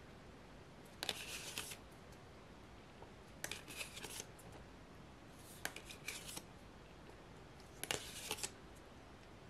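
Photo cards being handled and flipped through by hand, in four short bursts about two seconds apart.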